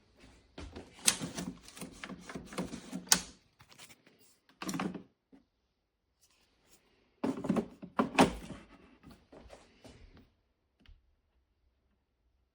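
Clicks, knocks and light clatter from hard parts of an espresso machine being handled. They come in two spells with a pause between.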